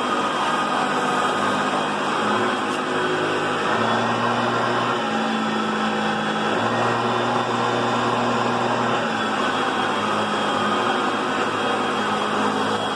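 Hoover Concept One self-propelled upright vacuum running steadily while vacuuming, a motor whine over a lower hum that shifts up and down a few times.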